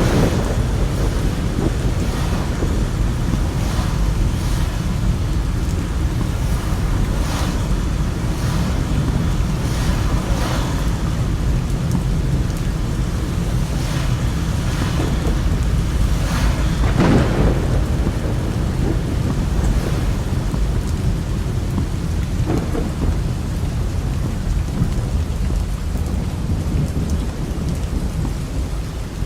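Heavy rain falling steadily under a thunderstorm, with low thunder rumbling throughout. A few brief louder cracks stand out, the strongest about halfway through.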